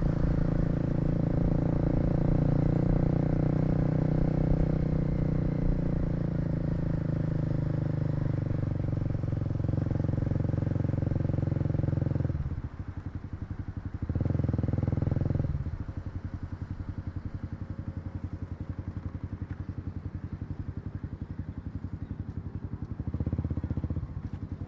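Kawasaki KLX250's single-cylinder four-stroke engine heard from the rider's position: it runs steadily under way, then about halfway through drops to an even, pulsing idle. It is blipped louder for a second or so, idles again, and picks up near the end.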